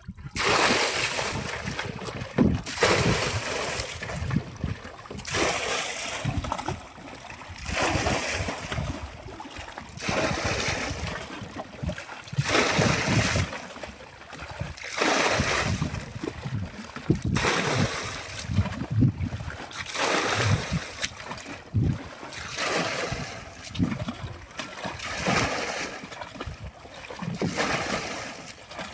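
Water splashing in repeated surges, one every couple of seconds.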